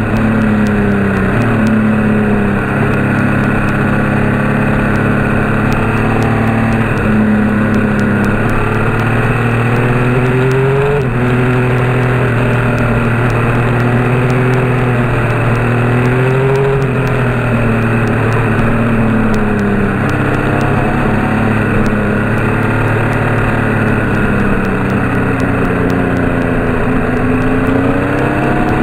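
Motor vehicle engine running while driving, its pitch rising and falling every few seconds as the revs change, over steady road noise.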